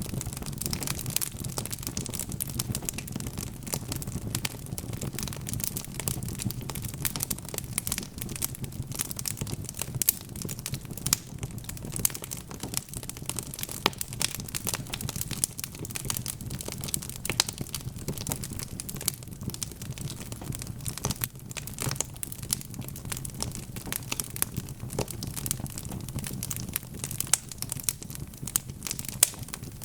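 Wood fire burning in a fireplace, crackling constantly with many small pops and a few sharper snaps over a steady low rumble of flame.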